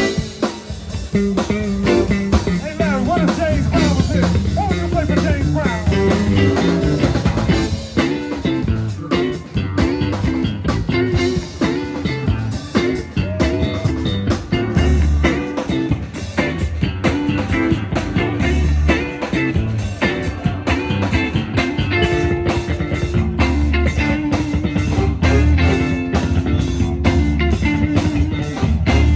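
Electric blues band playing: electric guitar with bending notes over bass guitar and drums, the drums keeping a steady, busy beat from about a third of the way in.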